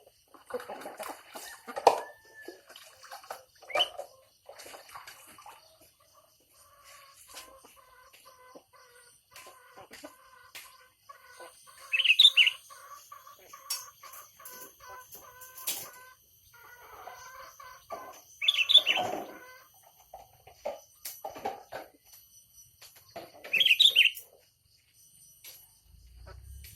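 Birds calling: three loud, high calls about six seconds apart, with softer chirps, calls and clicks in between.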